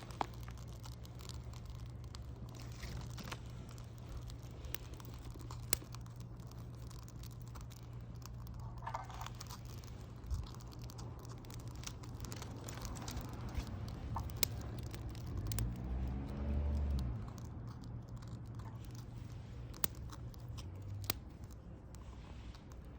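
Wood campfire crackling, with scattered sharp snaps over a steady low rumble. A louder, wavering pitched sound swells for a couple of seconds about two-thirds of the way through.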